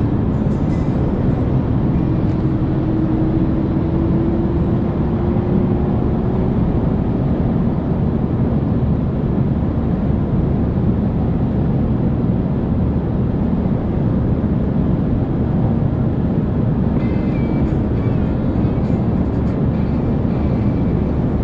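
Car engine and road noise heard from inside the cabin at speed, a steady loud drone. In the first few seconds the engine pitch climbs slowly as the car accelerates.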